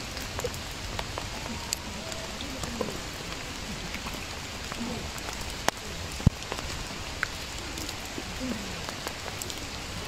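Steady rain falling, an even hiss with scattered sharp ticks of drops or small knocks.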